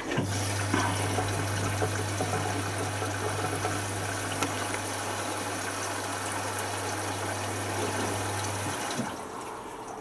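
Hotpoint Futura HF8B593 washing machine running water through itself with a steady low electrical hum, the sound of its water valve or pump at work. It cuts off abruptly about nine seconds in.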